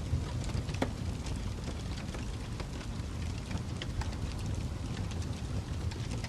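Fireplace fire crackling: a steady low rumble with scattered small pops and snaps, one sharper snap about a second in.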